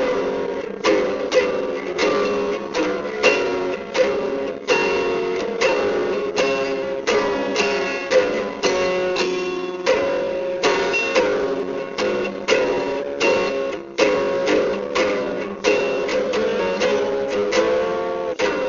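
Instrumental music on a strummed plucked string instrument, chords struck in an even rhythm of about two strokes a second.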